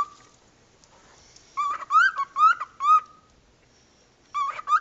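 Pet bird Wally calling: a quick series of about five short rising-and-falling calls about a second and a half in, then a pause, then two more near the end.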